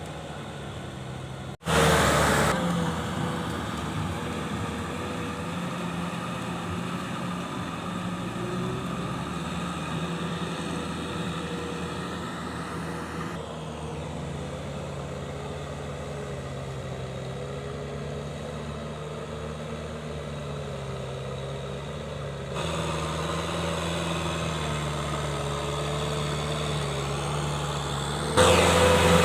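Kubota M6040SU tractor's diesel engine running steadily. Its level and pitch jump abruptly a few times, about 2, 13, 22 and 28 seconds in.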